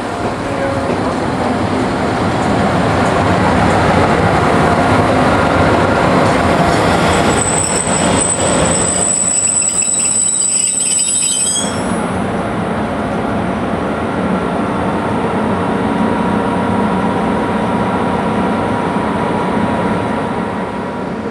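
Train running through the station close by, its wheels and carriages loud and steady, with a high-pitched squeal from the wheels for about four seconds, starting about seven seconds in.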